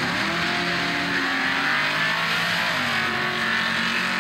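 Street cars on a drag strip revving hard, engine pitch climbing and dropping over a steady rushing noise from spinning tyres.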